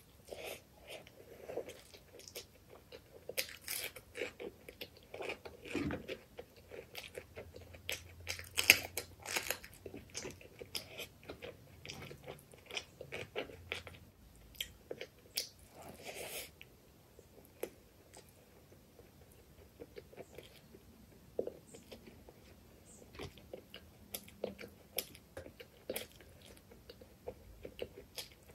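Close-miked chewing and wet mouth smacks of someone eating chicken liver curry with rice by hand, with a few crisp louder bites. The sounds come thick and fast for the first half and thin out after about 17 seconds.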